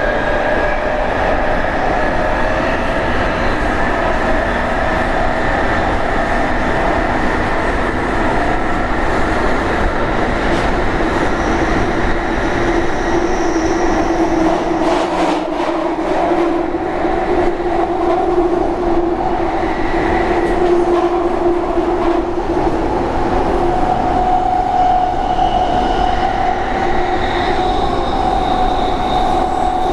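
London Underground 1996 Stock Jubilee Line train running: a continuous loud rumble of wheels and running gear with steady humming tones over it. A lower hum comes in about twelve seconds in.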